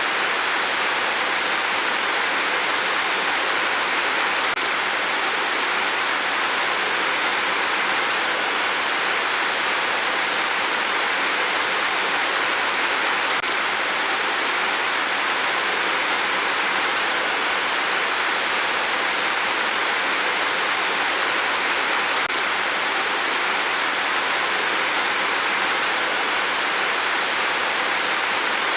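Steady rain, an even hiss with no separate drops, gusts or changes.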